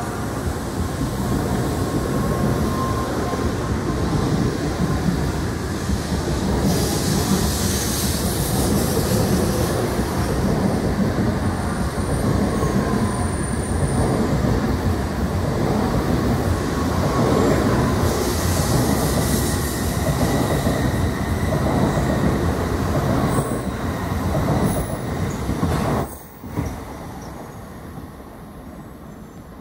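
JR Central N700S Shinkansen train pulling out and running past along the platform: a loud, steady rumble and rush of wheels and car bodies, with a brighter hiss swelling twice. About four seconds before the end the sound drops sharply to a much quieter rumble as the train recedes.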